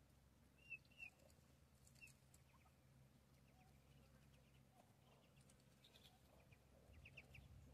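Near silence, with a few faint, short, high chirps from birds in the first two seconds and a few faint ticks later.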